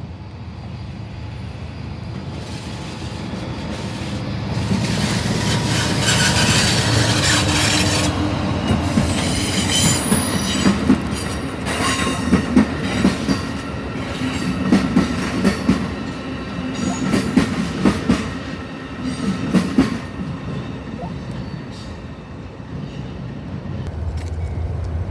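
A train passing on the tracks: it grows louder over several seconds, steel wheels squealing, then comes a run of sharp clacks as wheels cross rail joints. Near the end it gives way to the low, steady hum of a diesel locomotive's engine.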